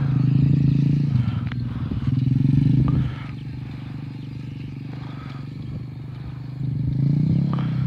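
Motocross dirt bike engine running; it drops quieter about three seconds in and picks up again near the end.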